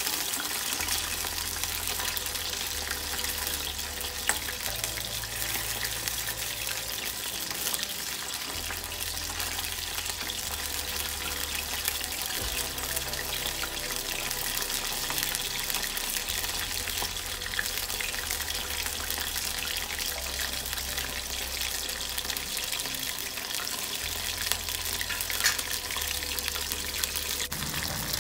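Chicken pieces deep-frying in hot oil in a wok: a steady sizzle.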